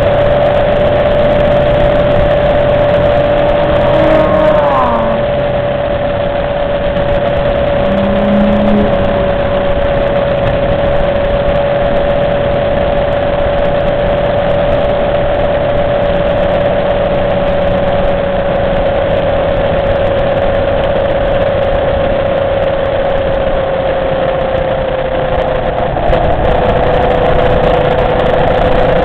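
Motorcycle engine running at a steady cruise under heavy wind noise on an onboard microphone. About four seconds in, a Porsche passes and its engine note glides briefly downward in pitch.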